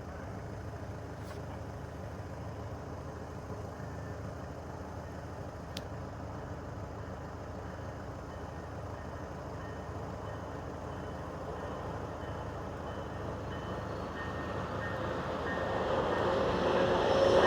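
VIA Rail Siemens Charger test train approaching: a steady low rumble that grows steadily louder over the last few seconds as the train draws near.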